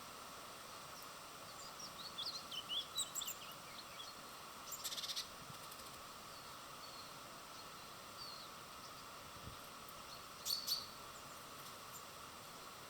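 Small birds chirping at a feeder: a run of short high chirps a couple of seconds in, a quick buzzy trill about five seconds in, and a sharp call near the end, over a steady outdoor hiss.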